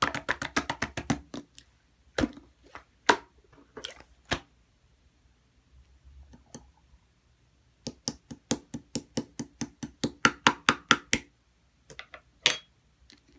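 Clear slime being pressed and kneaded by hand, giving sharp clicking pops as trapped air bursts. The pops come in quick runs of about six a second, with a quieter stretch in the middle.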